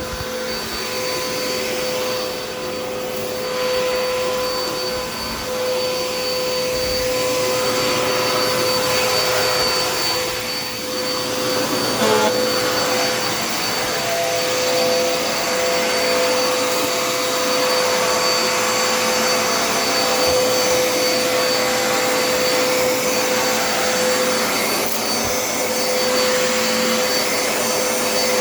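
Dirt Devil Endura Reach vacuum cleaner running, its motor giving a steady whine over the rush of air. There is a brief knock about twelve seconds in.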